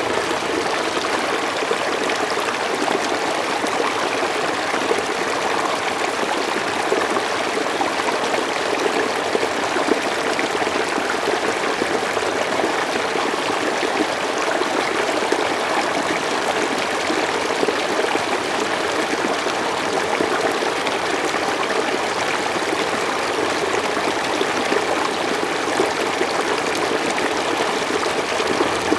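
Mountain stream flowing steadily over rocks, an even rushing and trickling of water.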